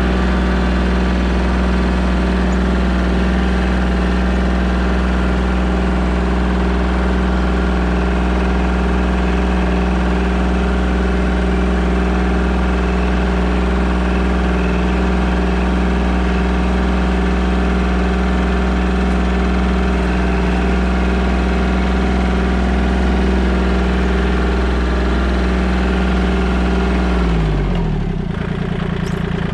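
Compact tractor engine running at a steady speed while the tractor is driven, the revs dropping near the end.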